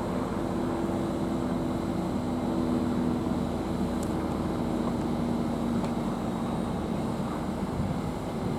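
Great Western Railway Class 800 train pulling out, a steady running drone with two held tones that change little.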